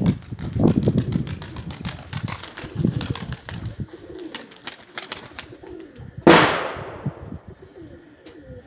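Domestic pigeons cooing in low, repeated swells among rapid short clicks. A loud sudden burst about six seconds in fades over about a second.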